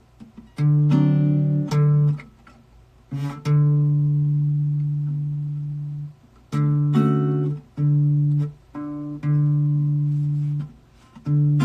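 Guitar chords plucked and let ring one after another, each held for a moment and then cut off abruptly by muting, with short pauses between them, as the player works out a half-remembered piece.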